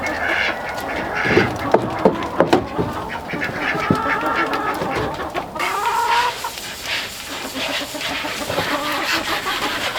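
Chickens clucking, with a few sharp knocks about one and a half to two and a half seconds in.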